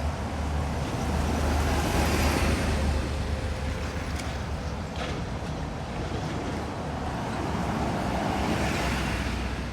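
City street traffic: motor vehicles passing over a steady low rumble, swelling twice as vehicles go by.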